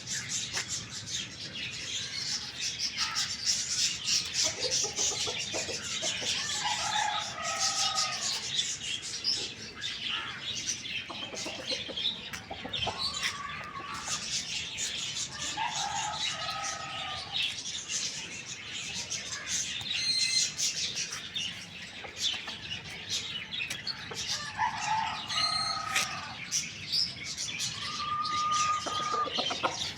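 Chickens calling about half a dozen times, each call lasting about a second, over a constant chatter of small birds chirping.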